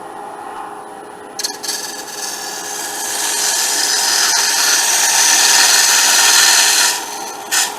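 Wood lathe running with a steady hum while a turning tool cuts into spinning cedar: a couple of brief touches about a second and a half in, then a loud, even cut for about five seconds that stops, and one more short touch near the end.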